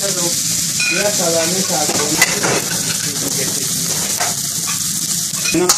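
Chicken tikka pieces sizzling as they fry in a hot wok over a gas flame, with a single sharp metallic clink about two seconds in.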